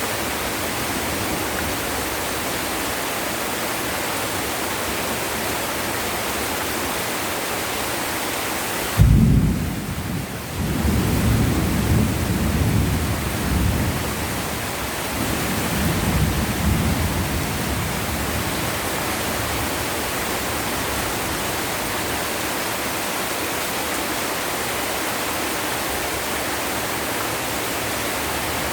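Heavy rain falling steadily. About nine seconds in a sudden clap of thunder breaks out and rolls on in waves of low rumbling for about eight seconds before the rain alone is left.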